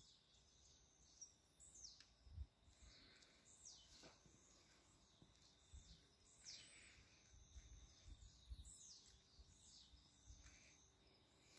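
Faint morning birdsong from several birds: scattered chirps and short whistles sliding downward in pitch, over a faint steady high tone and a few low thumps.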